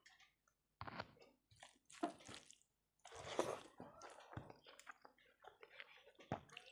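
Close-miked chewing of a mouthful of rice and curry: irregular wet mouth sounds, with a few sharp clicks in the second half.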